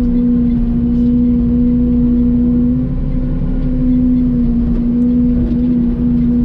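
Mini excavator running steadily at a constant pitch, its engine and hydraulics giving an even hum.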